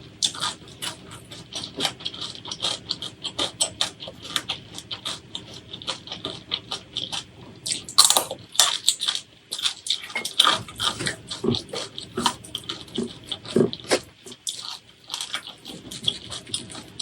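Close-miked eating sounds: wet chewing and lip smacking in quick succession, with crisp clicks, loudest about eight and ten seconds in.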